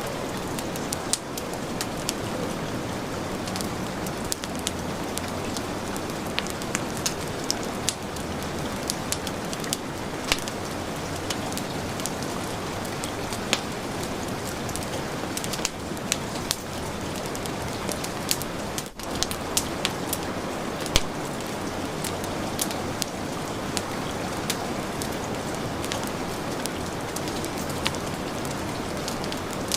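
Heavy rain hissing steadily, mixed with a wood fire crackling, its sharp pops scattered irregularly through the rain. The sound dips for a moment about two-thirds of the way through.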